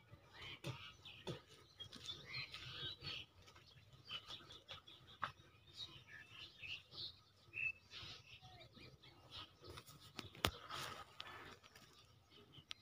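Faint bird chirps and calls scattered throughout, with a few light clicks and one sharp click near the end.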